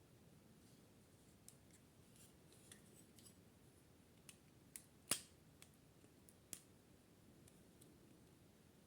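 Quiet room with a scatter of faint small clicks and taps, one sharper click about five seconds in, over low hiss.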